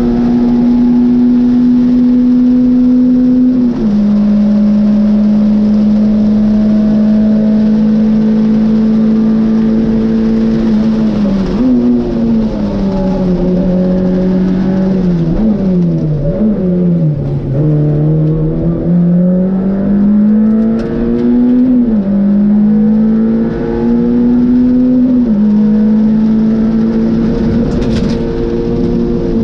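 Peugeot 106 XSi rally car's four-cylinder engine, heard from inside the cabin, pulling hard at steady high revs on a special stage. Its note drops about four seconds in. Through the middle it falls away with a few quick throttle blips, then climbs again and steps down once more near the end.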